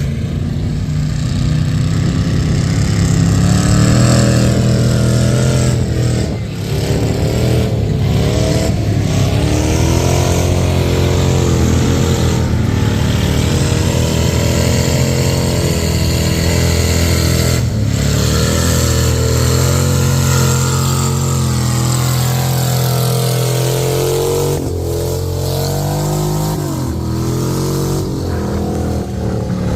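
Mud truck's engine revving hard, its pitch climbing and falling over and over as it is run at high revs through the mud pit.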